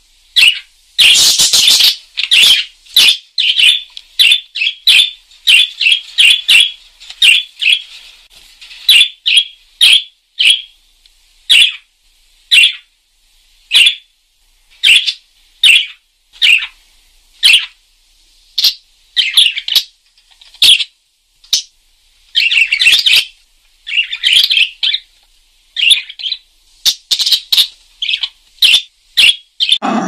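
Small bird chirping: short, high chirps repeated one to three times a second, with a couple of brief bursts of rapid twittering.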